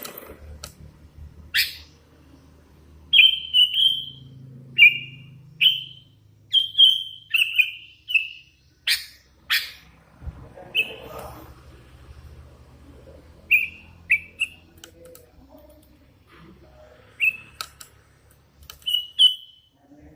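Young hand-fed sooty-headed bulbul giving short, high chirps, singly or two or three in quick succession, with pauses of a second or more between.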